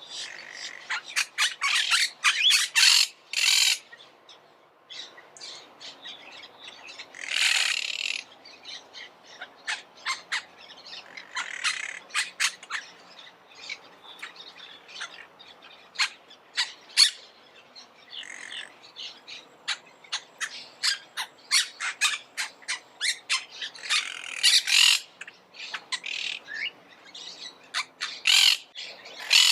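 Monk parakeets calling: quick runs of short, sharp chirps with a few longer harsh squawks scattered through.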